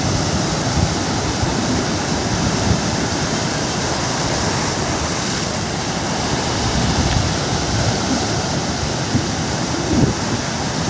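Ocean surf: a steady wash of breaking waves, with an uneven low rumble of wind on the microphone.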